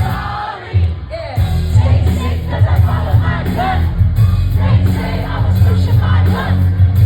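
Music: a hip-hop/R&B song with a heavy bass beat and sung or rapped vocals, dropping out briefly about a second in before the beat comes back.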